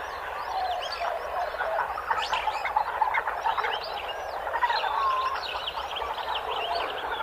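Wild animal chorus of frogs and birds: many short chirping and croaking calls overlapping densely at a steady level.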